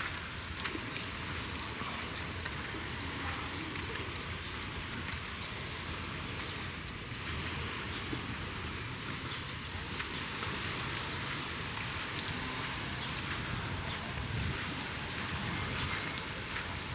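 Steady outdoor ambience: an even wash of noise with many faint, short high chirps scattered throughout.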